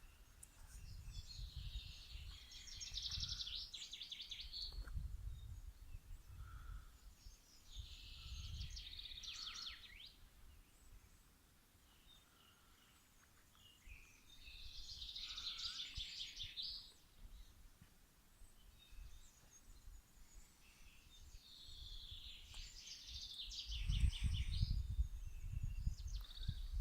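A songbird singing four phrases of rapid, high notes, each a few seconds long, with pauses of several seconds between them. Under some of the phrases there is a low rumble.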